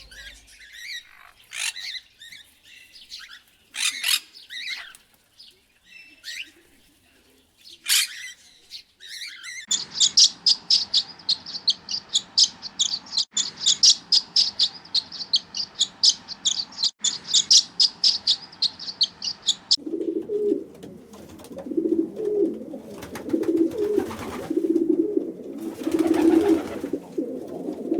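Bird calls in three stretches: scattered high chirps, then about ten seconds of fast, continuous high chirping that cuts off suddenly, then low calls repeated in short pulses.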